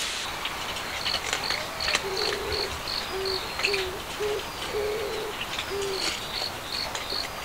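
Outdoor animal calls: a run of short, low bird calls through the middle, over a high chirping that repeats about three times a second and pauses midway.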